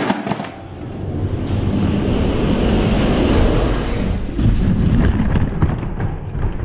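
Diecast toy monster trucks rolling down a racing track: a steady, loud, low rumbling noise with a few light clicks.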